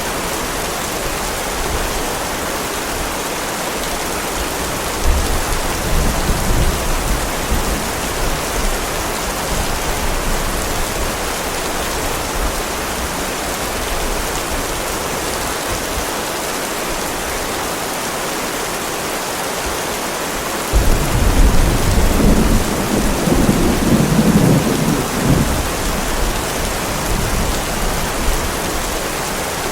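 Heavy rain falling steadily, with two rolls of thunder. A low rumble comes about five seconds in, and a louder one breaks suddenly a little past twenty seconds and rolls on for several seconds.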